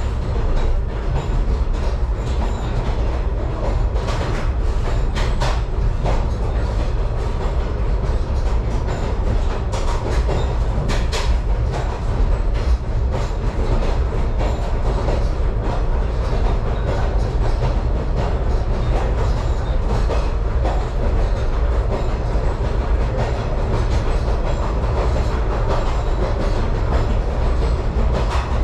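Excursion train rolling along the track, heard from its car roof: a steady deep rumble of wheels on rail, with a few sharp clicks as the wheels pass over rail joints.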